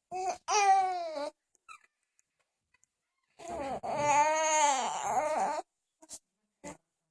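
High, wavering vocal calls without words: two short calls near the start, then one long call that rises and falls in pitch for about two seconds.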